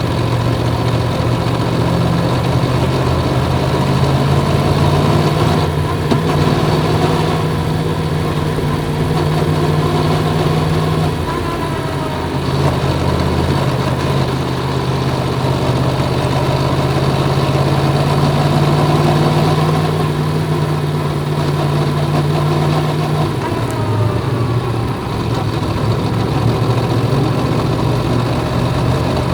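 Yamaha MT-10's crossplane inline-four engine running steadily. Its note dips briefly about eleven seconds in and settles slightly lower near the end.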